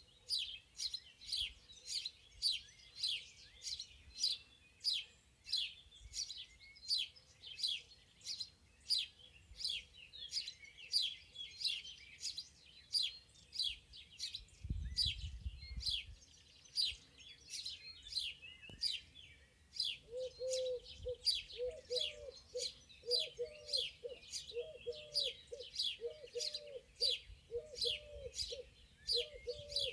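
Wild birds chirping, a high, quickly falling note repeated about twice a second throughout. About two-thirds of the way in, a dove starts cooing low and repeatedly underneath.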